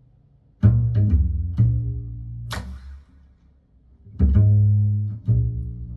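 Instrumental song intro on a plucked string instrument: low notes plucked and left ringing, in two short phrases with a pause in the middle, and a sharp bright strike about two and a half seconds in.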